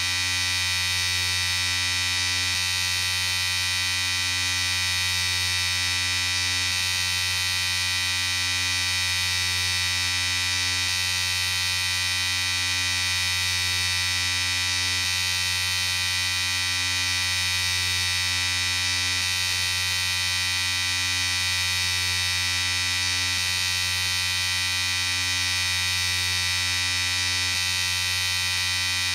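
Electric shaver running with a steady, even buzz.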